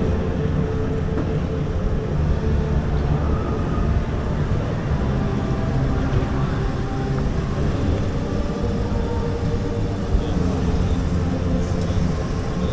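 Ram pickup truck's engine running steadily at low speed as the truck crawls over a rock obstacle course, a continuous low rumble.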